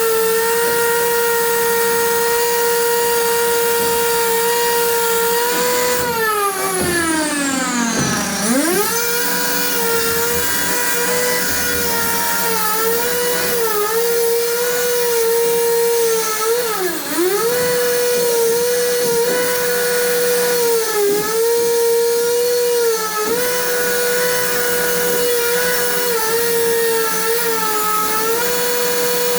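A high-speed electric power tool whining steadily, its pitch dipping briefly again and again as the tool is loaded. About six seconds in it winds down sharply in pitch, then comes straight back up to speed.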